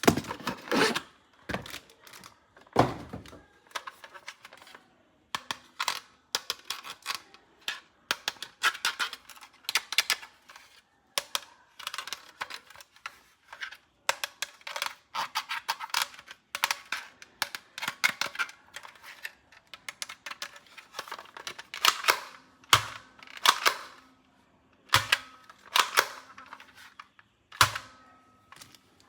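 Hands handling hard plastic toys and packaging: irregular runs of sharp plastic clicks and taps, in quick clusters with short pauses between.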